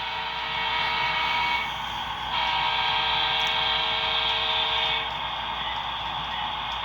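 HO-scale diesel locomotive's QSI sound decoder playing a horn through its onboard speakers in two blasts, the second one longer and louder and ending about five seconds in. The diesel engine sound from the speakers carries on underneath throughout.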